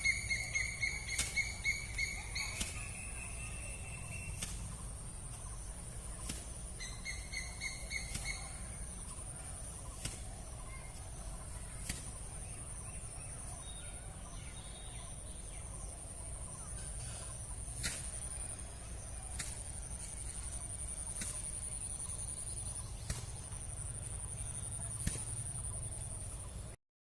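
Birds calling in open country: one bird gives a fast stuttering run of repeated notes that rises slightly in pitch, then a second shorter run about seven seconds in. A steady high-pitched trill and faint ticks every couple of seconds run underneath, over a low rumble. Everything cuts off abruptly just before the end.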